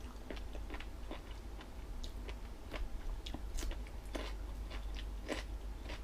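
A person chewing a crunchy jellyfish salad close to the microphone, with wet crunches and clicks coming irregularly several times a second.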